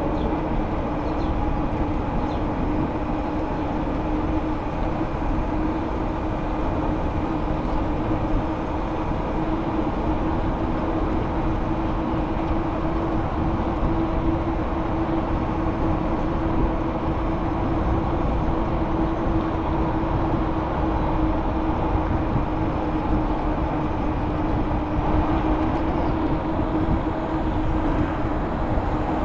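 Steady rolling noise of a ride: a constant hum from the spinning tyres over a low rumble of wind on the microphone.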